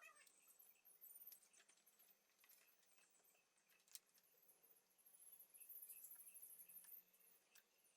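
Near silence, with faint high-pitched chirps and scattered light ticks.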